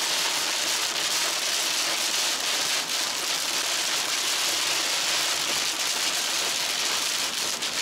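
Torrential rain hitting the car's roof and windshield, heard from inside the moving car: a loud, steady hiss. The driver calls it really loud, loud enough to have to yell over.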